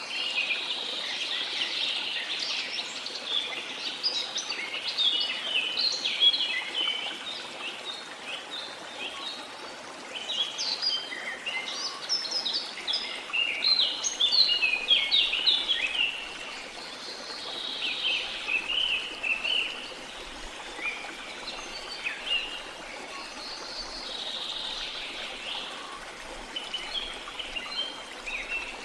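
Many birds chirping and trilling at once in busy bouts that rise and fall, over a steady low rush of running water.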